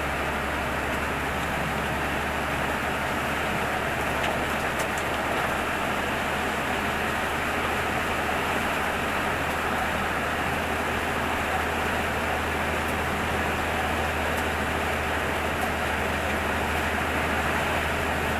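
Heavy storm rain falling in a steady hiss, with a constant low hum underneath.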